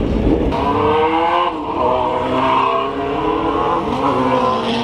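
Car engines revving, their pitch rising and falling.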